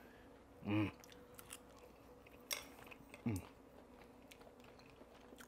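A person chewing a bite of cooked steak with the mouth closed: faint wet mouth clicks, plus two brief murmurs of voice.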